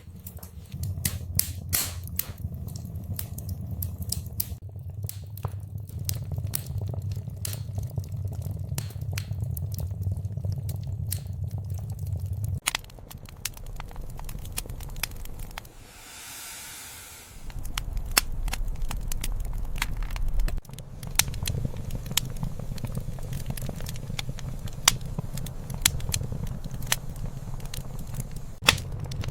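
Wood fire burning in a fireplace, crackling with many irregular sharp pops over a low rumble. A short hiss sounds about halfway through.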